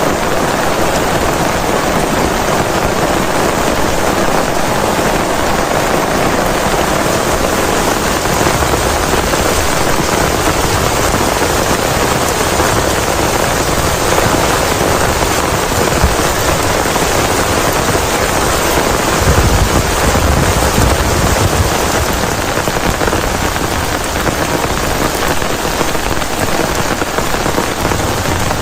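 Heavy rain falling steadily, a dense even patter of drops on a surface. A brief low rumble swells up about two-thirds of the way through.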